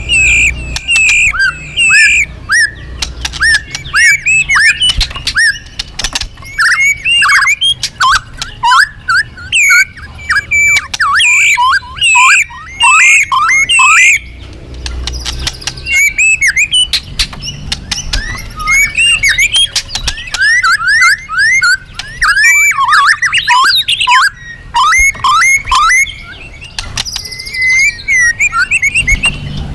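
A murai (a Copsychus songbird such as the white-rumped shama) singing loudly in full 'gacor' song. It pours out rapid, varied whistles, chirps and trills in long bouts with short breaks, the kind of song played as a lure to set other murai singing. A faint low hum runs underneath.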